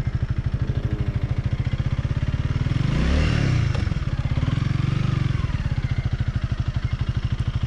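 Honda Rebel 300's single-cylinder engine idling with an even, rapid pulse, swelling briefly around three seconds in and again around five.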